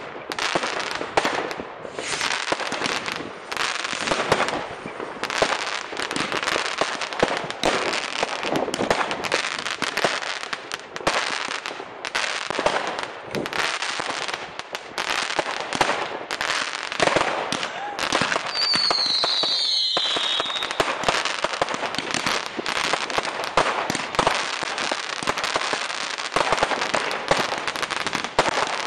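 Fireworks display: continuous dense crackling and bangs of bursting shells and rockets, with a falling whistle about eighteen seconds in.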